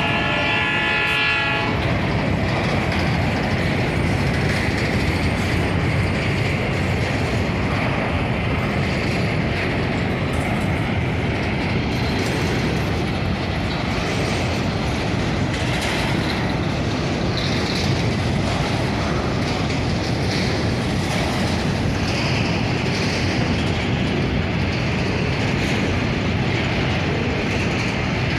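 A freight locomotive's horn, cutting off about a second and a half in, followed by the steady rolling noise and clatter of a long train of empty freight wagons passing close by.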